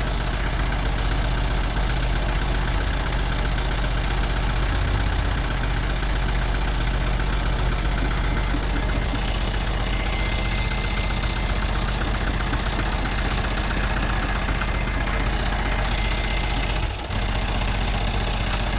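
Excavator engine running steadily at idle, with a brief drop in level about seventeen seconds in.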